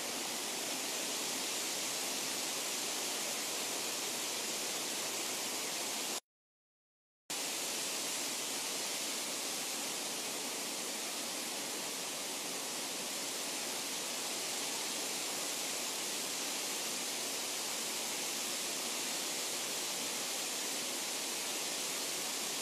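Steady rush of flowing water, an even hiss with no change in level. It cuts to dead silence for about a second, about six seconds in, then resumes as before.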